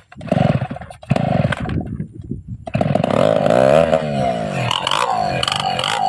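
Two-stroke chainsaw engine firing in short sputtering bursts, then catching a little under three seconds in and running continuously, its pitch rising and falling repeatedly.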